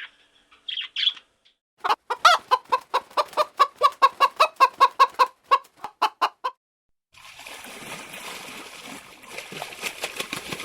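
A chicken clucking in a quick run of short calls, about four a second, lasting about four seconds, after a few brief high bird chirps at the start. Past the middle the clucking stops and a steady rushing noise follows.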